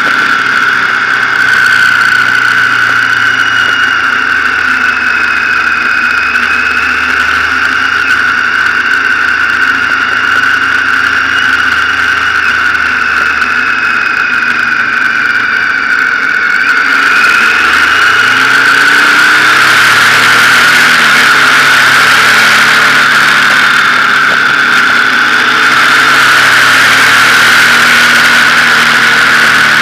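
Motorcycle engine running while under way, with a steady high whine over it. About halfway through, the engine note dips and then climbs, and the sound grows a little louder.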